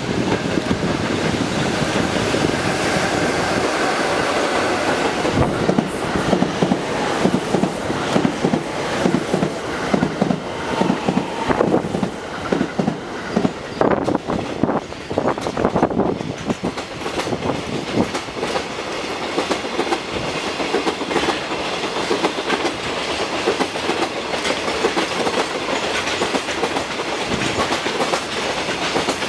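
High-speed freight train hauled by an EF66 electric locomotive passing close by, its wheels clattering steadily over the rail joints.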